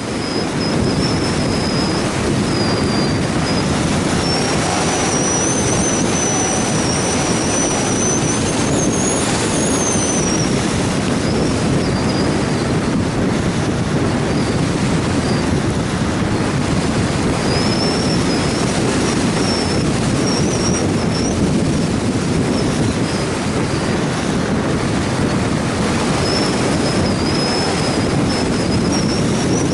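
Strong wind rushing over an action camera's microphone in flight, steady throughout, with a thin high whine that wavers up and down in pitch, dropping out and coming back twice.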